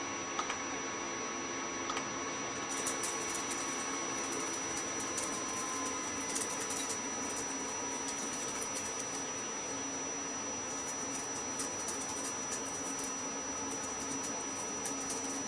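Steady indoor room noise with a faint, high, continuous whine and a few light clicks.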